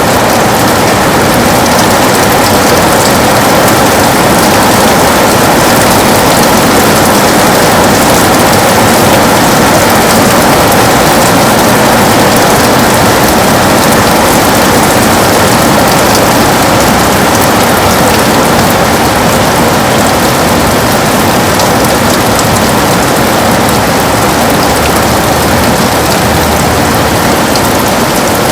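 Heavy rain beating steadily on a window, a dense, even patter without let-up. A faint low rumble comes in near the end.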